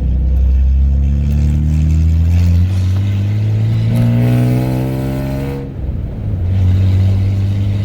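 1995 Ford F-150's 4.9-litre (300) straight-six running through a straight-piped 2.5-inch exhaust, accelerating with the revs climbing, a gear change about two and a half seconds in, then climbing again. Near six seconds the revs drop off as the throttle lifts, and the engine then settles into a steady note.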